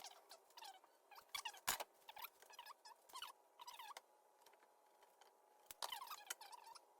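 Faint scattered clicks and short squeaks of metal drawer-slide tracks being handled and fitted, with a louder knock just under two seconds in.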